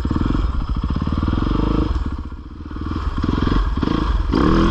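A 450 four-stroke dirt bike engine running under throttle with a rapid even firing beat. It eases off about two seconds in, then picks back up and revs higher near the end.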